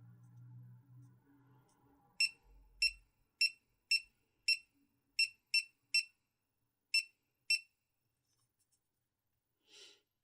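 GoPro Hero 4 Silver action camera beeping: ten short, high electronic beeps at uneven intervals over about five seconds, then a brief scuff near the end.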